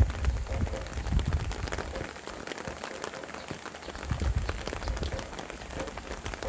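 Steady rain with many separate drops hitting surfaces, and wind gusting in low rumbling surges that rise and fall.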